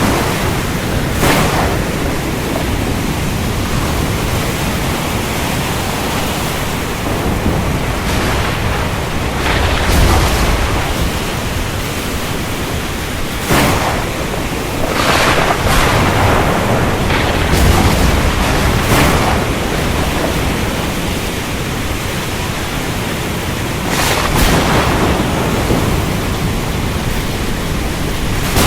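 Steady heavy rain hiss with thunder: several sharp cracks spread through, and a couple of deep low rumbles.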